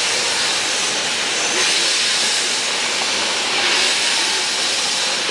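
C61 steam locomotive letting off steam: a loud, steady hiss that swells twice.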